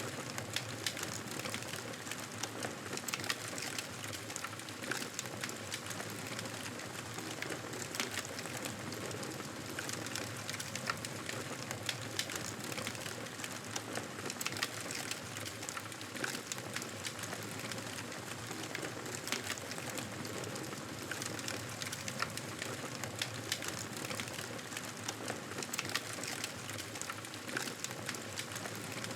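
Wood fire crackling in a fireplace: a steady hiss with frequent sharp pops and snaps throughout.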